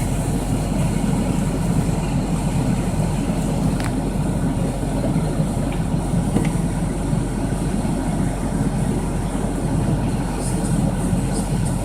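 Steady low engine rumble of an idling vehicle, heard from inside its cab.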